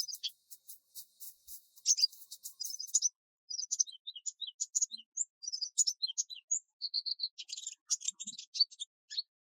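Small birds chirping: many short high notes and trills, some repeated in quick runs. In the first three seconds a rapid high ticking runs alongside them.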